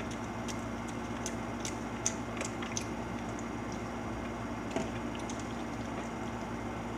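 Scattered small wet clicks and smacks of someone chewing food, over a steady room hum.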